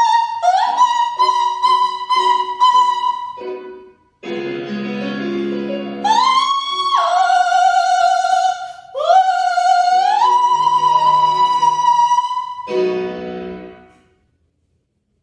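Soprano singing with piano: a string of short high notes that each slide up into pitch, a brief pause, then long held high notes over piano chords, and a final chord that closes the piece about fourteen seconds in.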